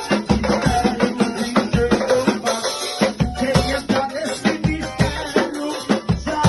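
Live band music with a fast, driving drum-kit beat and percussion under pitched instruments: an instrumental stretch of a Brazilian Pentecostal gospel 'corinho de fogo'.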